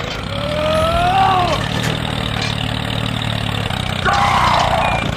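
A small motor running steadily with an even hum, while a voice gives two drawn-out exclamations, about a second in and again near the end.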